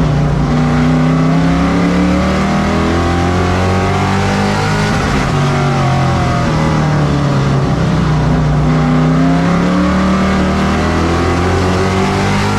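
Race truck engine at racing speed, winding up in pitch for about four seconds, then dropping back as it lifts, and winding up again, three times over: full throttle down the straights and easing off into the turns of a short oval.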